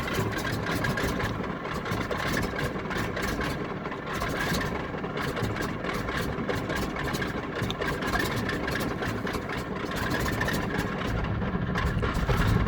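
Stinson's Pratt & Whitney R-985 nine-cylinder radial engine running unevenly at low idle just after start-up, still catching and not yet settled; the pilot wonders whether it is running a little rich.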